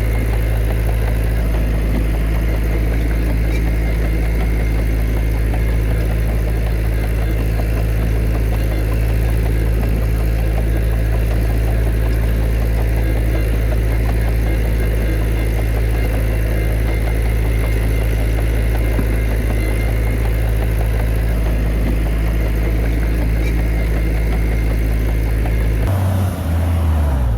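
Heavy construction machine's diesel engine running steadily at a constant speed, a deep, even drone. Near the end the sound changes abruptly.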